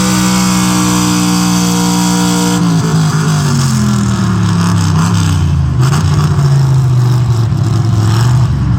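Pulling truck's engine held at high revs, then the revs drop off about two and a half seconds in and it runs on at a lower, wavering speed.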